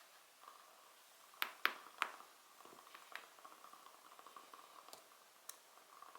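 Wood fire crackling softly, with a steady fine crackle and three sharp pops close together about a second and a half in, then a few fainter pops.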